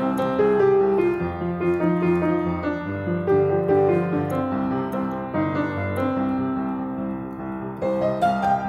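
Piano music: slow chords and melody notes, each note sounding on as the next is struck.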